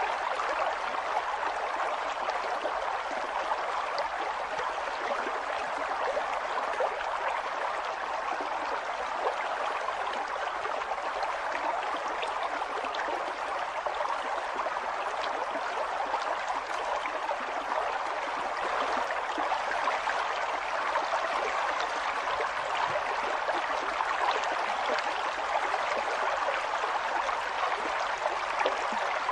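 River water flowing and splashing over stones, a steady rushing with many small splashes and gurgles.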